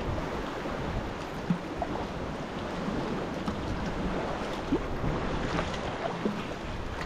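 Sea water washing and lapping around a kayak, with wind buffeting the microphone. A few small sharp splashes come at irregular moments, the clearest about a second and a half in.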